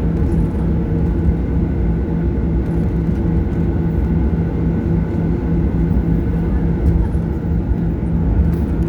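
Boeing 737-800 with CFM56-7B engines heard from inside the cabin: a steady engine rumble with a constant hum of several steady tones, pitch neither rising nor falling.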